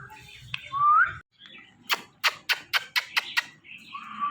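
Indian ringneck parrot making a cat-like 'meow', a short tone that rises at its end, about a second in. This is followed by a quick run of about seven sharp clicks, and another rising meow near the end.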